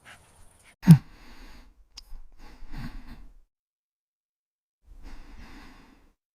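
A voice sighing heavily, twice, each sigh falling in pitch, then a softer breathy sigh about five seconds in.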